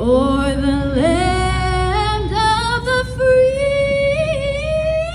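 A woman singing solo over a public-address system, her voice climbing in pitch through the phrase to a long held high note near the end. A steady low drone of aircraft engines runs underneath.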